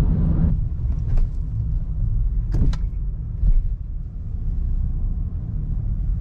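Steady low rumble of a car's road and engine noise heard from inside while driving, with a couple of brief clicks and a single thump midway.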